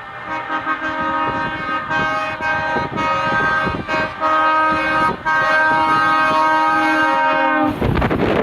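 Truck horn blowing one long steady blast for about seven seconds, with a brief break about five seconds in.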